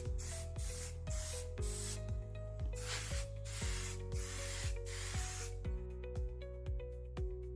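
Aerosol can of VHT black high-temperature paint spraying in a quick string of short hissing bursts as a light coat goes on; the spraying stops about three-quarters of the way through.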